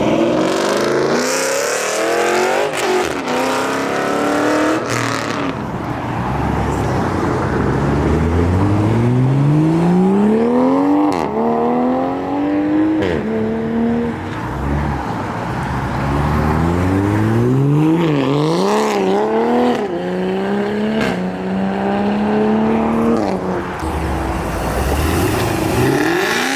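A high-performance car engine accelerating hard, its pitch climbing in long sweeps and dropping back at each gear change, several times over.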